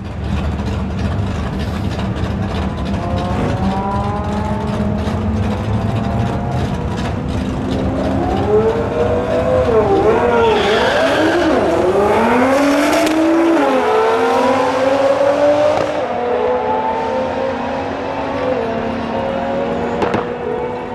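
Twin-turbo Lamborghini Gallardo V10 accelerating hard down a drag strip, its engine pitch climbing again and again through the gear changes. The sound swells to its loudest about ten to thirteen seconds in and then settles to a steadier drone, with one sharp crack near the end.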